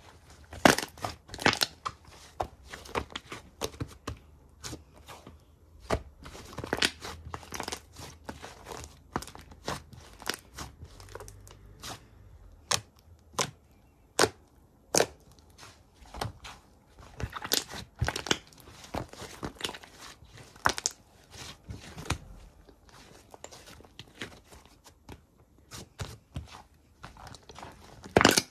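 Slime being squished, pulled and torn by hand close to the microphone: irregular crackles, pops and tearing sounds, a few every second.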